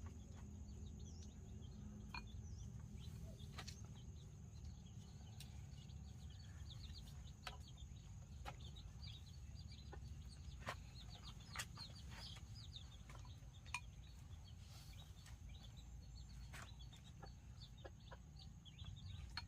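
Faint chicken calls: many short, high, falling chirps scattered throughout, with occasional sharp clicks over a low rumble and a steady high tone.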